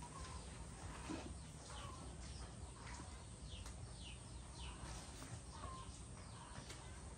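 Young chickens peeping: a scattered series of short, high, falling chirps, faint over steady background noise.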